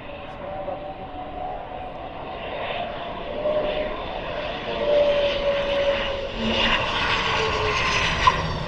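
Hongdu L-15E jet trainers on approach to land, their jet engines sounding steadily and growing louder about halfway through. Near the end high-pitched whining tones fall in pitch as a jet passes.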